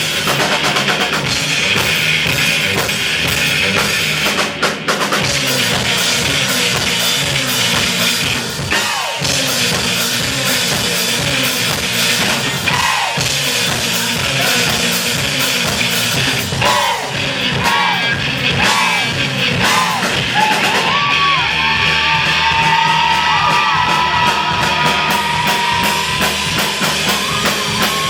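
Live rock band playing a song, with a drum kit driving a steady beat under the band. About halfway through, a higher line of bending, sliding notes comes in over it and settles into held notes.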